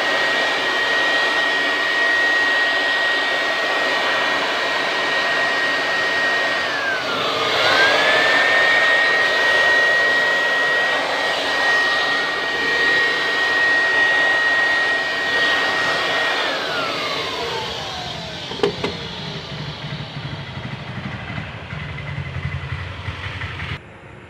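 Handheld electric blower running with a steady high whine over a rush of air, blowing dust out of an air conditioner's outdoor unit. Its speed dips briefly about seven seconds in, and about sixteen seconds in it is switched off and winds down over a few seconds. A short knock follows.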